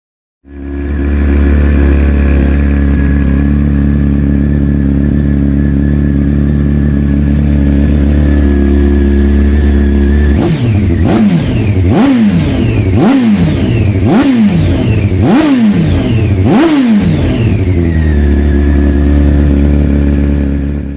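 Honda CBR929RR inline-four sport bike fitted with Max Torque Cans exhaust, idling steadily. About halfway through it gives roughly six quick throttle blips, each rev jumping up and falling back, and then it settles back to idle.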